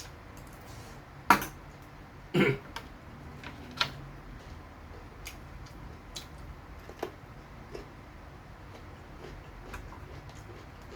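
Eating sounds from a meal of fried chicken thigh and rice: a few sharp knocks and clicks, the loudest about a second in and two more within the next few seconds, then scattered small chewing clicks.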